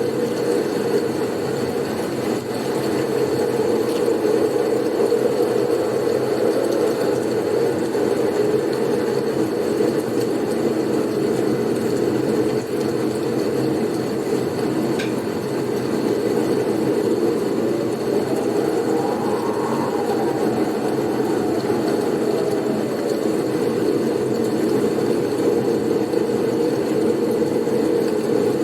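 Blizzard wind: a steady low rushing noise, with a faint whistle that rises and falls about two-thirds of the way through.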